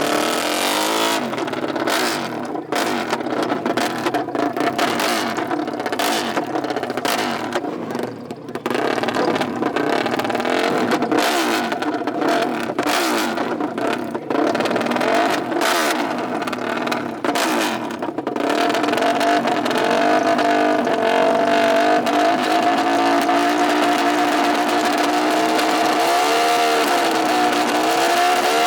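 Off-road racing engines revving hard, with many brief breaks in the sound through the first two-thirds, then a steadier high drone with a short dip and rise in pitch near the end.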